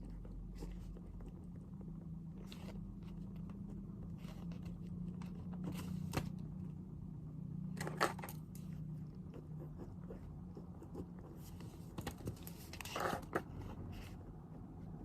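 Steady low room hum with scattered small desk sounds of someone studying: light clicks and short paper or stationery rustles, the loudest a sharp click about eight seconds in and a brief scraping rustle about thirteen seconds in.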